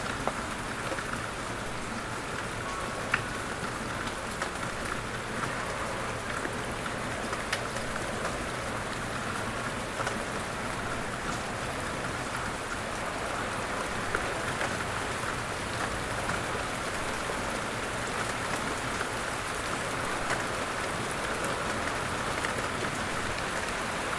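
Steady rain falling: a constant hiss dotted with small drop ticks.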